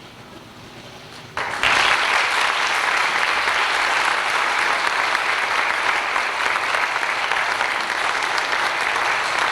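Audience applauding, starting suddenly about a second and a half in after a short hush, then holding steady and loud.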